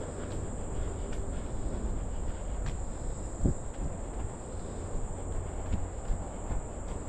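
Steady high-pitched insect drone over low rumbling noise, with a few short thumps.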